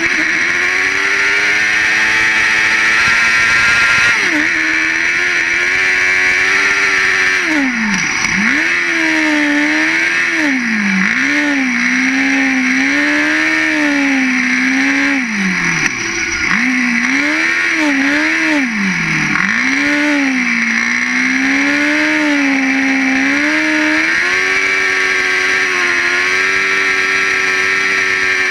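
Ice-racing car's engine revving hard, its note rising and falling over and over as the car lifts off and accelerates through a run of corners. The note dips sharply a few times and is held high near the start and near the end, over a steady hiss.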